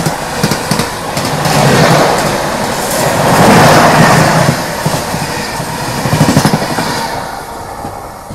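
Passenger train overtaking on the adjacent track, heard from a moving train: a loud rush of its coaches and wheels clattering over the rails. It is loudest about three to four seconds in and dies away near the end as the last coach goes by.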